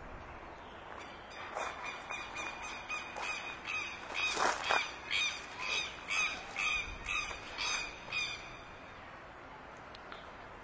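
A bird calling over and over in short pitched calls, about two a second, for some seven seconds, then stopping.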